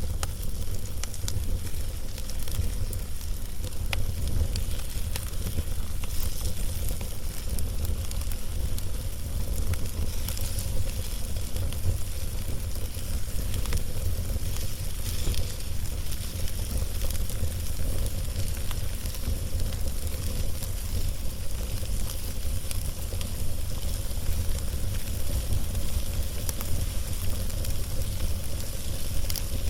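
Log fire crackling and hissing, with frequent small irregular pops over a steady low rumble.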